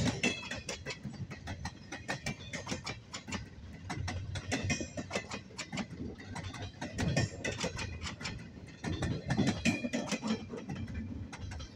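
Long freight train of empty double-stack well cars rolling past: a steady rumble of wheels on rail with constant irregular clanking and rattling from the empty cars, and a few brief high squeals.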